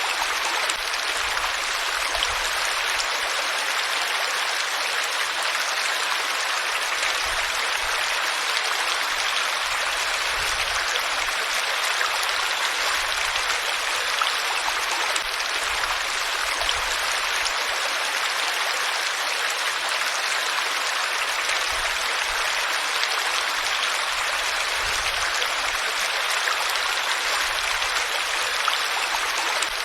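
Flowing water of a stream, a steady rushing and splashing.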